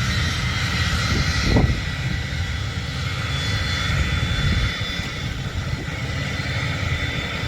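Aircraft engine running steadily: a high, even whine over a low rumble, briefly swelling louder about one and a half seconds in.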